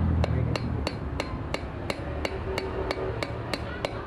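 Hammering: a steady run of even, sharp strikes, about three a second.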